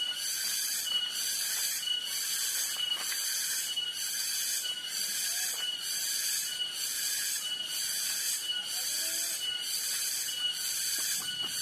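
Cicadas buzzing shrilly in an even pulsing rhythm, about one and a half pulses a second, over a steady high whine.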